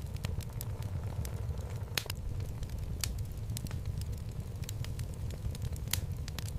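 Wood fire burning in a home fireplace: a steady low rumble of flames with irregular crackles and pops of burning logs, a few sharper pops about 2, 3 and 6 seconds in.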